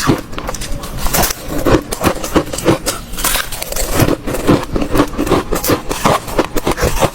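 Hard ice cubes being bitten and chewed close to the microphone: rapid, irregular crunches and cracks, several a second.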